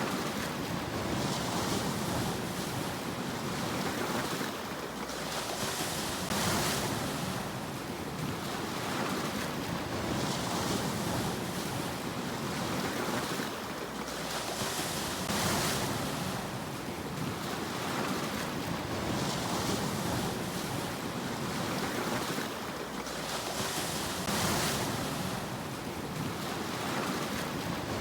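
Sea waves breaking and washing up a shore, a swell of surf coming in every four to five seconds over a continuous rush of water.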